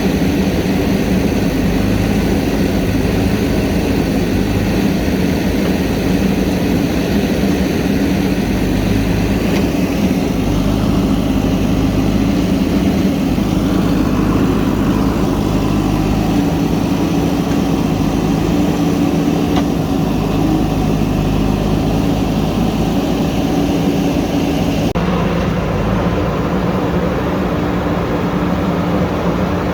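JCB backhoe loader's diesel engine running steadily while working; its upper tones drop away abruptly near the end.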